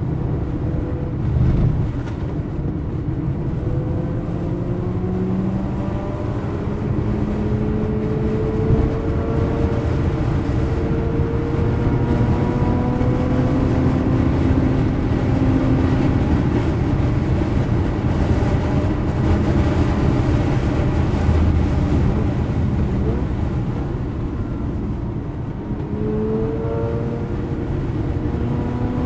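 Mazda RX-8's two-rotor Wankel engine heard from inside the cabin at speed on track, its pitch climbing slowly over several long stretches as the car accelerates, over a steady rumble of road and wind noise.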